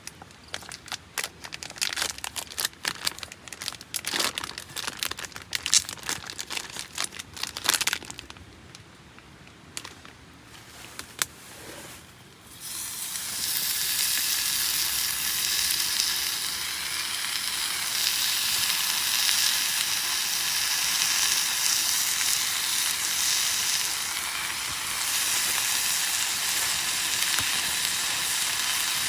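Sharp crackling and clicking for several seconds, then food starts sizzling in a hot pan about twelve seconds in and carries on as a steady, loud frying hiss.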